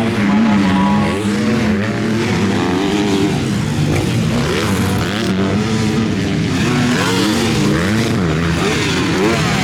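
Several motocross bikes racing, their engines repeatedly revving up and dropping back as they accelerate, shift and brake, with the pitches of different bikes overlapping.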